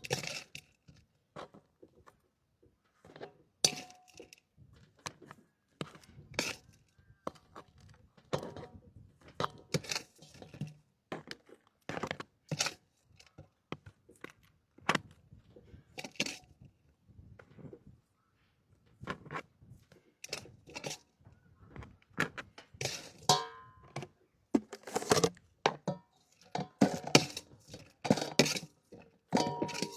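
Kitchenware being handled: irregular knocks, taps and clinks of dishes or utensils, some in quick runs, coming more often in the last third.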